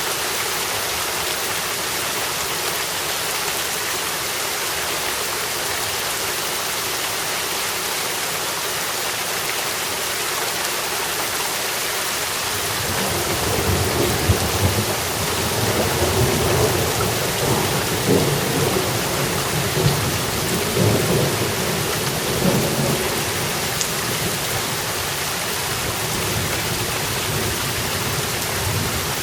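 Steady rain falling, with a long roll of thunder starting a little before halfway. It rumbles in several swells for about ten seconds, then fades back under the rain.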